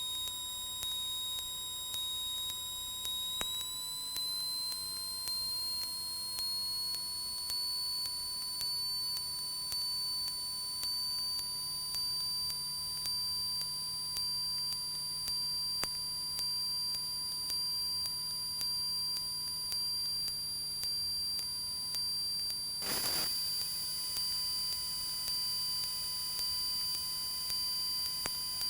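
Electrical whine in a Cessna 172's intercom audio, with no speech over it: a steady high tone joined by a higher whine that rises slowly in pitch over the first dozen seconds and then holds, over a faint low hum. A brief rustle comes about 23 seconds in.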